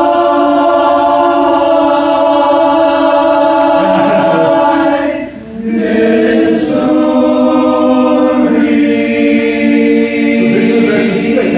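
Men's barbershop chorus singing a cappella in four-part harmony, holding one sustained chord, then after a short breath about five seconds in, a second held chord.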